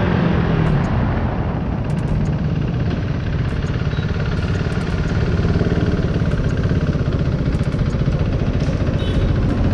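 KTM motorcycle engine running steadily at cruising speed on the road, with wind and road noise from riding.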